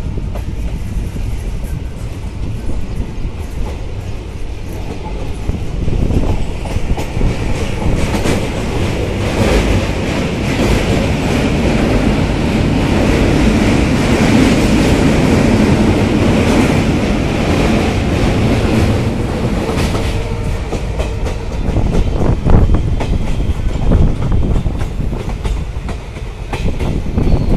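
Passenger train running, heard from aboard a coach: a steady rumble of wheels on rail with clickety-clack over the rail joints. The rumble grows louder and brighter for about ten seconds in the middle, as the train crosses a steel truss bridge, then eases back with sharper knocks near the end.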